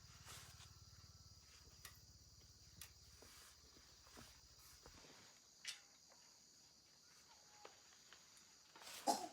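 Faint, steady chirring of crickets, with scattered small clicks and knocks. A low hum underneath stops about five seconds in.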